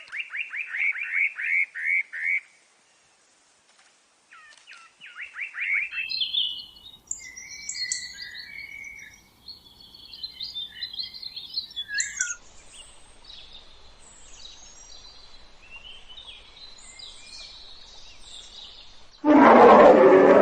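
Songbirds singing: two runs of quick, falling chirps, then a stretch of varied high chirping. Near the end a much louder, deep animal roar breaks in.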